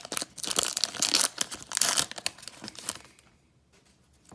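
Baseball card pack wrapper being torn open and crinkled: a dense run of crackling for about three seconds that stops suddenly.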